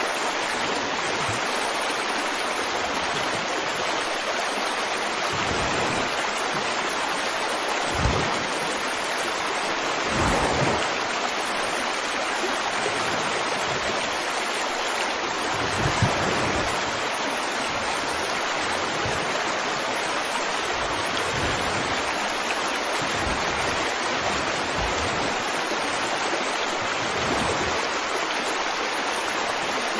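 Running water, a steady rush with a few brief deeper splashes about eight, ten and sixteen seconds in.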